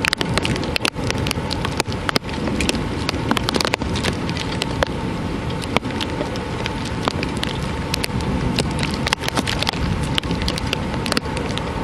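Heavy rain during a thunderstorm: a steady wash of rainfall with many sharp drop-hits close by.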